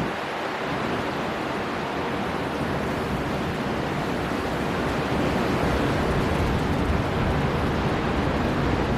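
Storm wind blowing hard over the sea with surf breaking, a steady dense rush that grows a little louder about halfway through.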